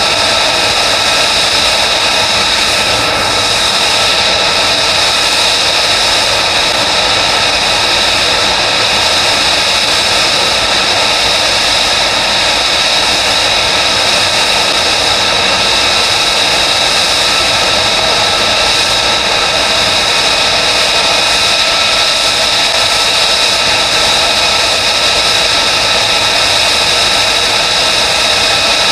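F-35B's Pratt & Whitney F135 turbofan running steadily at low power on the ground: a loud, even jet roar with a high whine over it.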